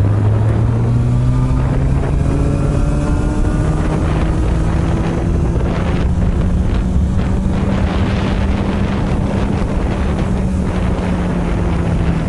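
Honda CB400 Super Bol d'Or NC42 inline-four running through an aftermarket r's gear muffler, rising in pitch as the bike accelerates for the first few seconds, then holding a steadier note. Wind rushes over the helmet-side microphone.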